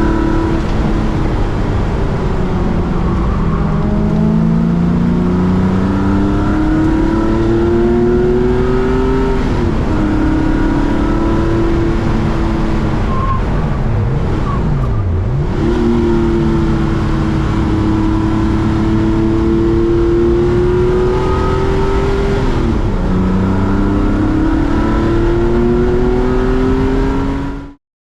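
Air-cooled Porsche flat-six race car engine under hard acceleration, its pitch climbing through each gear and dropping back at the shifts. There is a brief dip and recovery about halfway through, and the sound cuts off abruptly just before the end.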